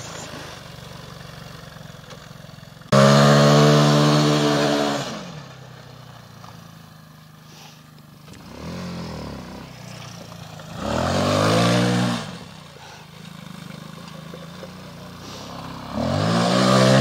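Small quad bike engine revving up and easing off in several bursts, the first starting suddenly and the loudest, with a lower engine sound running between them.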